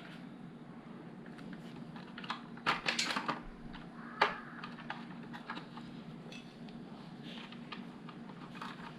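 Plastic LEGO bricks clicking and clattering as pieces are handled and pressed together: scattered sharp clicks, a quick cluster around three seconds in and one louder snap just after four seconds. A steady low hum runs underneath.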